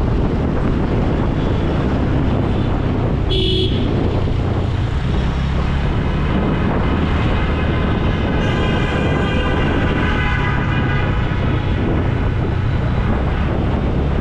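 Motorcycle running steadily through road traffic. A short vehicle horn honk comes about three and a half seconds in, and more traffic sound with higher tones follows in the second half.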